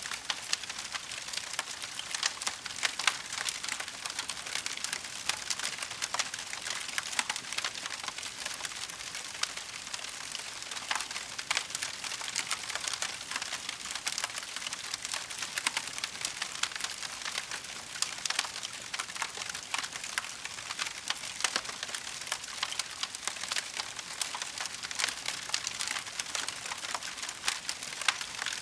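Wood fire crackling: a dense, continuous patter of small crackles with frequent sharper pops.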